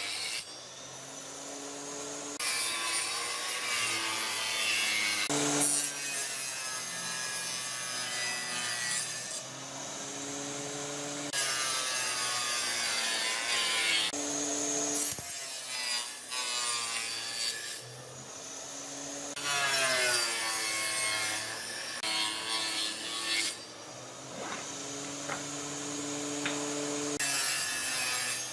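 Wood being sawn and scraped with woodworking tools, in a run of short passages that change abruptly every few seconds.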